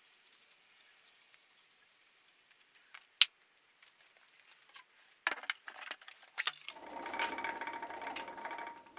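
Workshop handling sounds: a single sharp click about three seconds in, then a run of clicks and clatters. A small machine starts up about seven seconds in and runs steadily with a fine repeating texture.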